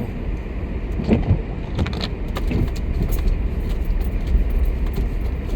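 Car driving slowly on snowy roads, heard from inside the cabin: a steady low rumble of engine and tyre noise, with a few faint clicks.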